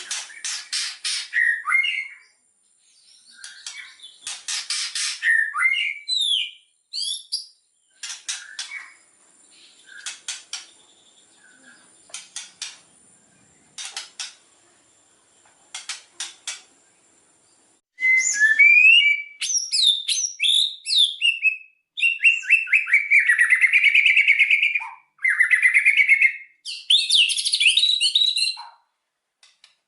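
White-rumped shama (murai batu) song: bursts of sharp, dry clicking rattles with a few short whistled notes, then, about two-thirds of the way through, a loud, varied run of whistles, slurred phrases and quick trills.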